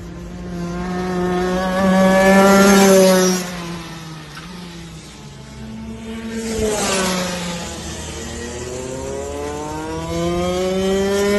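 A racing vehicle's engine revving and passing by. Its pitch climbs and falls away, then it passes close again with a rush and a drop in pitch about seven seconds in, and climbs once more near the end.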